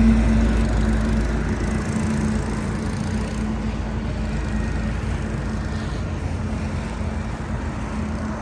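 A small engine running steadily, a low drone with a held hum that slowly fades.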